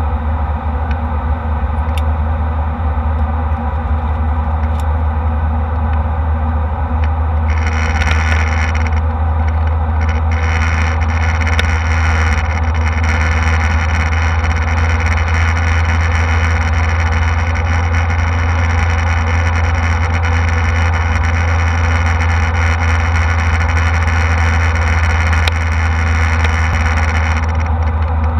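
Steady drone of a jet airliner's engines and airflow, heard inside the passenger cabin. A higher hiss of rushing air joins in about seven seconds in and drops away near the end.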